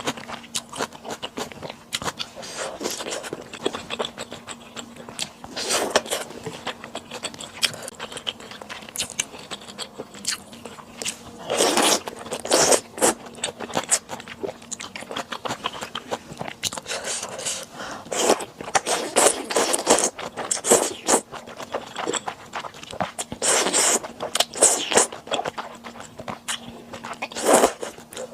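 Close-miked eating sounds of sundae and chewy Chinese glass noodles: irregular wet chewing, biting and mouth smacks, with occasional scraping, in short bursts that come in denser clusters now and then. A faint steady hum runs underneath.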